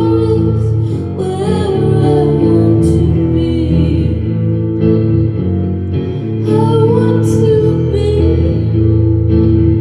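A woman singing live with her own solo guitar accompaniment, no band; the voice comes in phrases over the guitar.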